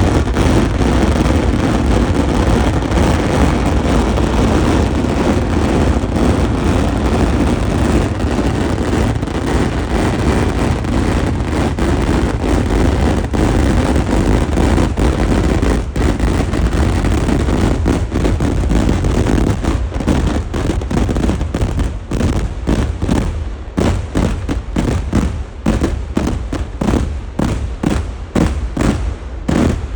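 Festival fireworks (Kerala vedikettu) going off in a dense barrage, the explosions merging into a continuous rumble. About twenty seconds in, this breaks up into rapid separate bangs, two or three a second.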